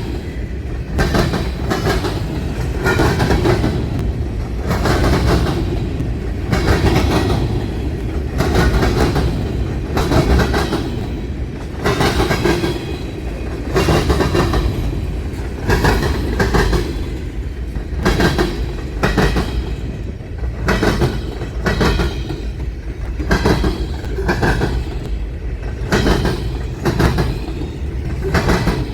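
Freight cars of a Union Pacific manifest train rolling past, their wheels clacking over the rail diamond crossing in clusters about every two seconds, over a steady low rumble.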